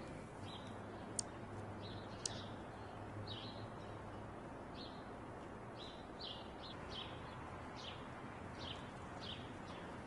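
Short high bird chirps repeated irregularly, coming about two a second in the second half, with two sharp clicks in the first few seconds.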